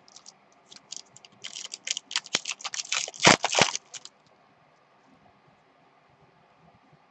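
Trading cards being handled and flipped through: a quick run of clicks and rustles, densest and loudest around three seconds in, stopping after about four seconds.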